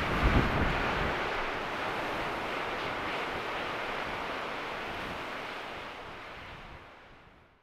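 Steady rushing wind, with a few low gusts hitting the microphone about half a second in, fading out over the last two seconds.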